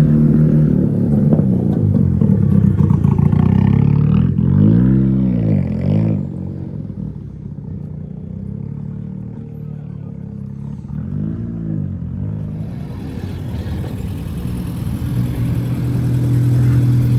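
Car engines running, with an engine revved up and back down twice, its pitch rising and falling about four seconds in and again about eleven seconds in. The sound is quieter in between and grows louder near the end with a steady engine drone.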